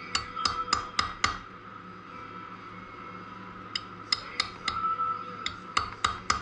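Hammer tapping on a socket extension used as a drift to drive the stator-side crankshaft oil seal back into its seat: quick runs of sharp, ringing metal strikes, about four a second, with a pause between the runs.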